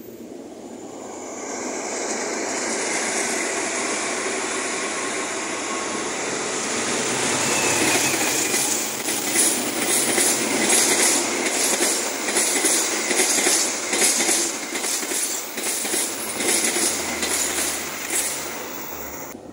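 Train passing: its noise builds over the first couple of seconds, then the wheels clack rapidly and rhythmically over the rail joints for about ten seconds before it fades away near the end.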